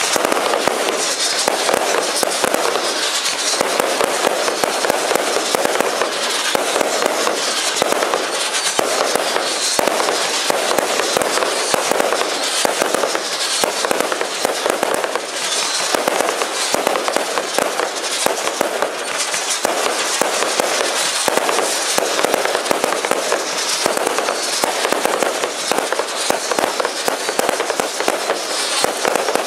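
1.3G 100-shot single-ignition firework barrage cake firing without a break: a rapid, continuous string of shots and bursts.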